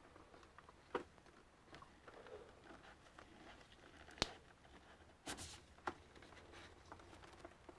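Faint, scattered clicks and taps of small parts and tools being handled while an all-in-one computer is taken apart: a click about a second in, a sharper one about four seconds in, and a short cluster of clicks a second later.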